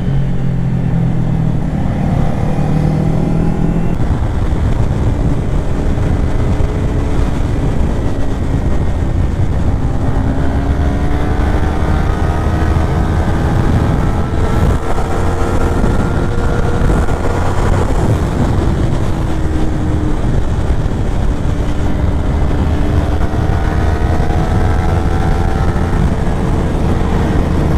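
Kawasaki Ninja 400 parallel-twin engine running while riding at speed, its pitch slowly rising and falling with the throttle, under heavy wind rush on the microphone.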